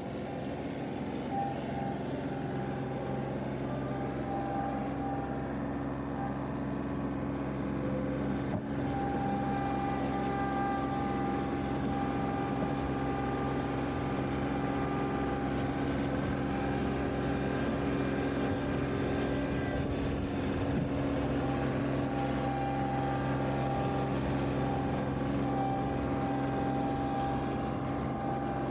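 John Deere 2038R compact tractor's three-cylinder diesel engine running steadily, with a higher whine that comes and goes.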